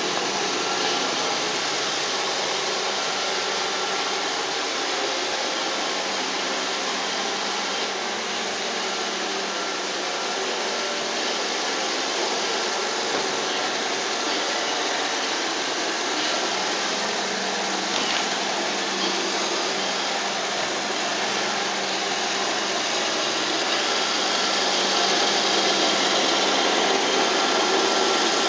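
iRobot Roomba 760 robot vacuum running its cleaning cycle: a steady whir with a constant hum under it, growing a little louder near the end.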